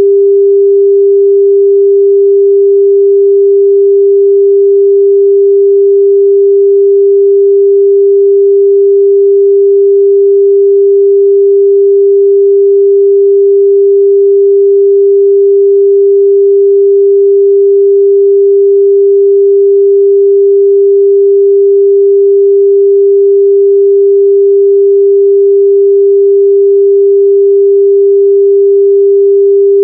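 A steady 398 Hz sine-wave test tone, a single pure pitch held at a constant level without a break.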